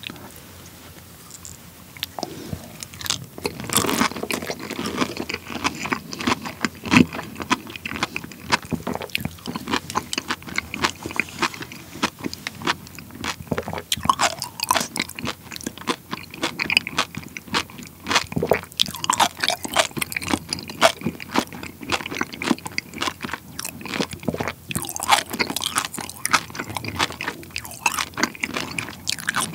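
Close-miked chewing of a mouthful of honeycomb topped with sea grapes: wet crunching and smacking that start about two seconds in and keep going in a dense, irregular run.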